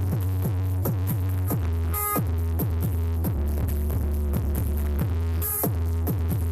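Electronic dance music played loud through a big carnival sound system under test. It has a heavy, steady bass and a quick run of falling-pitch drum hits, about three a second, with a crash about two seconds in and again near the end.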